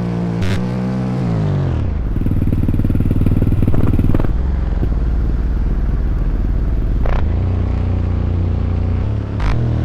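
Dirt bike engines running and revving. The pitch drops over the first couple of seconds as the throttle comes off, then gives way to a dense, steady low engine drone.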